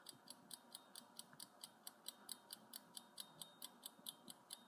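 Faint, evenly spaced clock-like ticking, about four ticks a second: a countdown-timer tick sound effect running over a low hiss.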